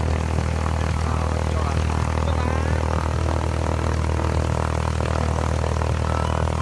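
Light propeller aircraft's engine running steadily, an even low drone.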